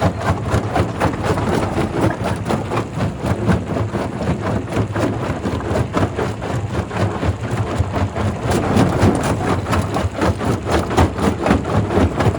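Primary rock crusher running: a steady heavy machine drone with a continuous rapid clatter of knocks as stone is crushed.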